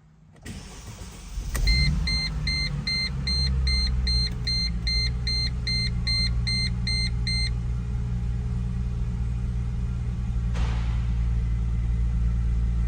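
A 2006 Mercedes-Benz SLK280's 3.0-litre V6 cranks briefly on the starter, catches about a second and a half in, and settles into a steady idle from cold. A dashboard warning chime beeps about twice a second for some six seconds after the engine starts.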